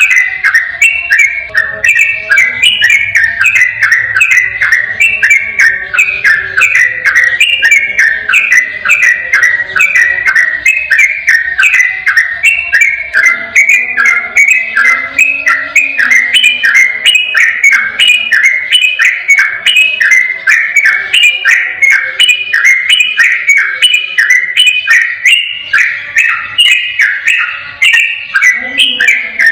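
Yellow-vented bulbul (trucukan) singing its rapid rolling song: quick whistled notes repeated in a steady, unbroken run with no pause.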